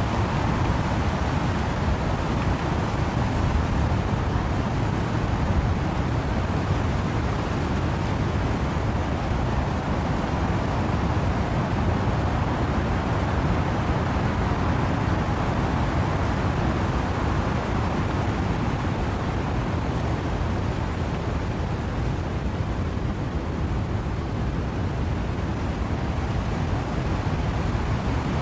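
Wind blowing through trees with steady rain, a dense constant rush weighted to the low end that swells gently now and then.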